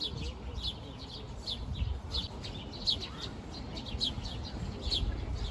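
Songbirds chirping: short, high chirps repeat about twice a second over a low background rumble.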